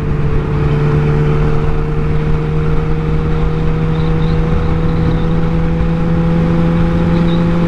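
Yamaha R1's inline-four engine running steadily at cruising speed, its pitch creeping slowly upward, under a constant rush of wind on the rider's microphone.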